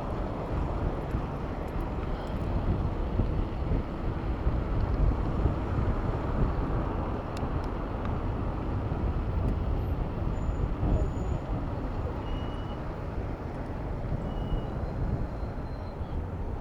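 Steady city road-traffic noise with a low rumble of wind on the microphone, heard from a moving bicycle, with a few faint short high chirps in the second half.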